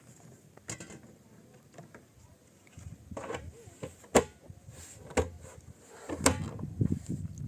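Several sharp knocks, the loudest about four seconds in, among irregular scuffing and handling noises.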